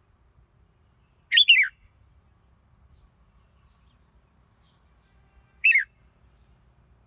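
Red-whiskered bulbul singing two short, loud phrases of quick downward-sliding notes: one about a second in, and a shorter one near the end.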